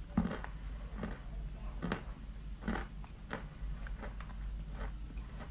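A person biting and chewing a lump of white chalk, a series of short crunches roughly once a second.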